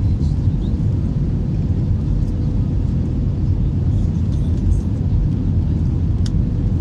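Steady low rumble of an Airbus A321 airliner, even throughout, with a faint steady hum above it and a few light clicks.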